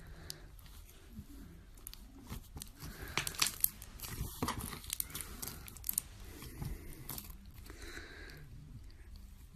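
Slime being squeezed and stretched by hand, giving irregular wet crackles and pops that are busiest in the middle.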